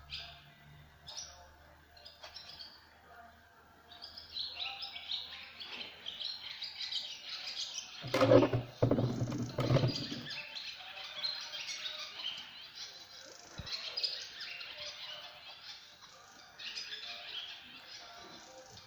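Small birds chirping and twittering busily, with a louder noise lasting about two seconds near the middle.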